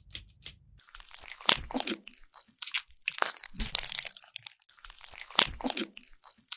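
Plastic toy packaging crinkling and crunching as it is handled, in irregular bursts with sharp clicks.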